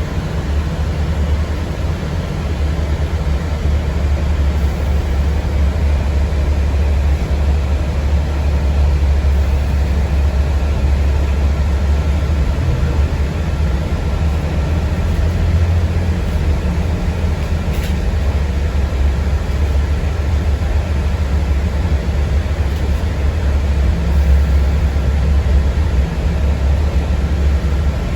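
Steady low rumble inside a moving city bus, with a faint steady high whine.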